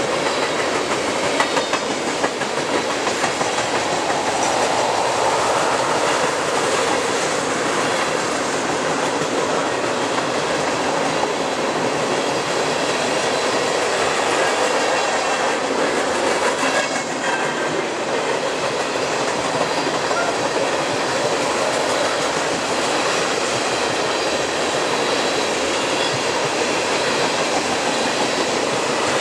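Empty tank cars of an oil train rolling past at steady speed: the continuous rolling noise of steel wheels on rail, unbroken throughout.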